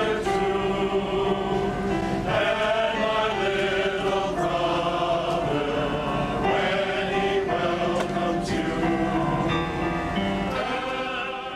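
A choir singing held chords, fading out at the very end.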